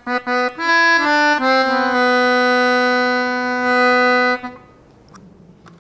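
A short instrumental phrase: a few quick notes stepping between pitches, then one low note held for about three seconds, stopping about four and a half seconds in.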